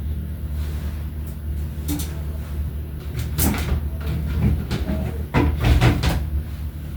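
Food containers and groceries being handled and set into a fridge, with several knocks and clatters about halfway through and near the end, over a steady low hum.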